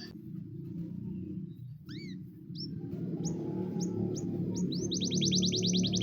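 Canary singing: a few separate rising chirps, then, about five seconds in, a fast rolling trill of quick rising notes, about a dozen a second.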